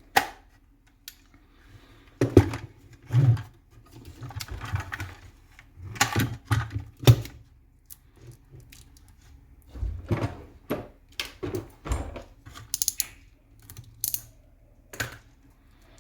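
Irregular clicks, knocks and rattles of an airsoft M14 rifle's parts being handled and worked on during disassembly, with a few short stretches of rustling between the knocks.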